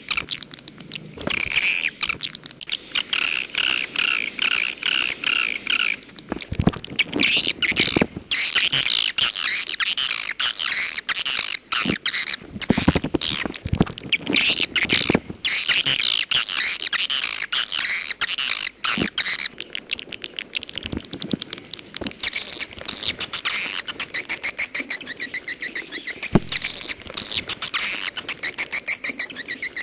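Swiftlets calling: dense, rapid twittering chirps over fast clicking, in runs of a few seconds with short breaks between them.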